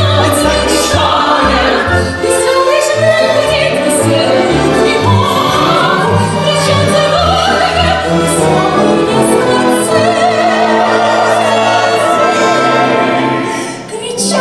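Operatic-style singing over instrumental accompaniment: a single voice carries the melody, with vibrato on long held notes in the second half.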